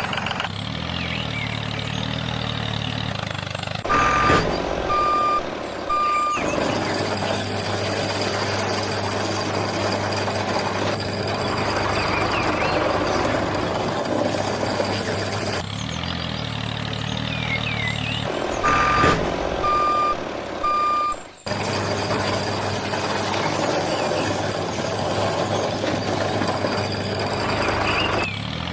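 A heavy vehicle's engine running steadily, with a reversing alarm giving three short beeps twice, about fifteen seconds apart. The whole sound seems to repeat like a loop.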